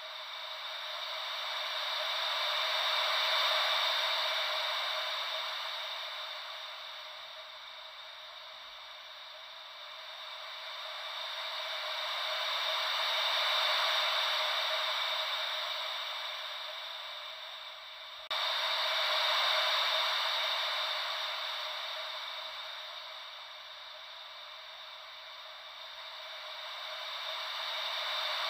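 Ocean-wave white noise: a soft hiss with little bass that swells and fades slowly, about every ten seconds, as a wave rolls in and draws back. About two-thirds of the way through, the level jumps suddenly where the loop restarts.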